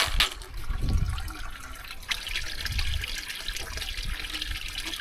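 Water running steadily from a tap, splashing, with a sharp knock right at the start.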